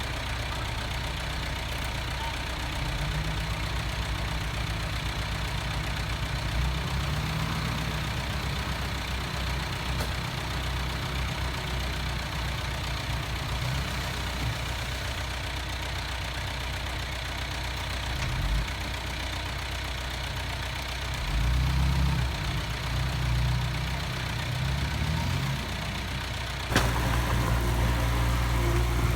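Heavy diesel engine of earthmoving machinery running, its pitch rising and falling several times as it works, then suddenly louder near the end.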